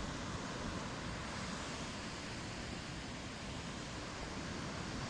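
Steady wash of low ocean surf on a sandy beach, an even noise without distinct breaks.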